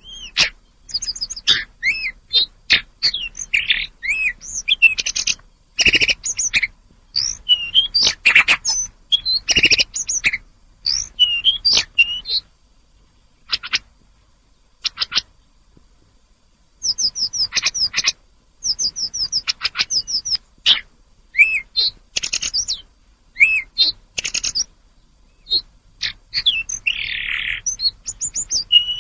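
Tledekan gunung songbird singing: rapid phrases of varied chirps and clear whistled notes. There is a pause of a few seconds in the middle, broken only by a few single sharp notes, before it sings again.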